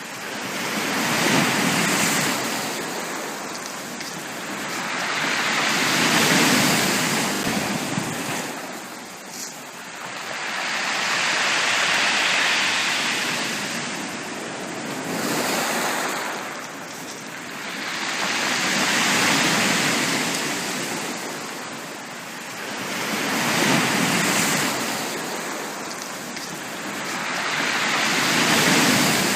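Sea waves breaking on a beach, the surf rising and falling back about every four to five seconds.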